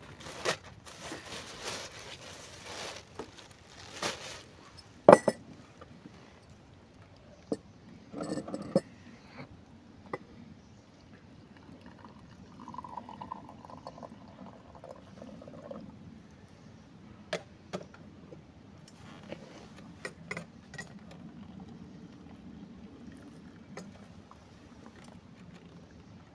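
Liquid being poured into a container, among scattered clinks and knocks of dishware; a sharp clink about five seconds in is the loudest sound.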